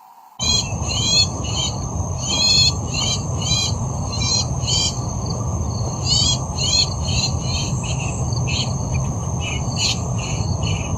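A bird giving a long series of short chirps, about two a second, over a steady high-pitched insect drone and a low rumbling background noise. The sound cuts in suddenly about half a second in.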